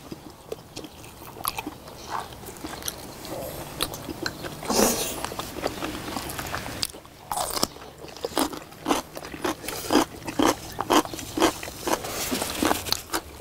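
Close-miked eating of braised LA-style beef short ribs: chewing and biting with wet mouth smacks as meat is pulled off the rib bones. The smacks come thicker and louder in the second half.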